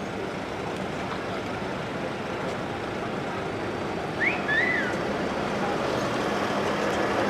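Steady outdoor background noise, with a few brief high chirps a little past the middle.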